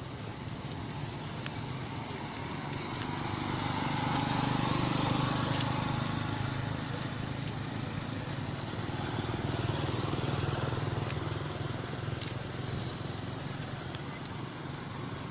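A motor vehicle's engine running with a steady hum that swells twice, about five seconds in and again around ten seconds, as if passing nearby.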